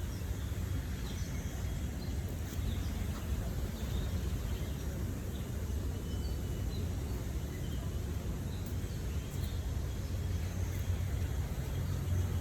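Outdoor park ambience: a steady low rumble with scattered faint bird chirps.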